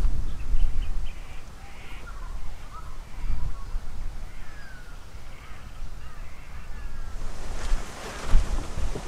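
Birds calling outdoors: short curving calls and chirps come and go through the middle. A low wind rumble on the microphone fades after the first second, and a rushing gust of wind rises near the end.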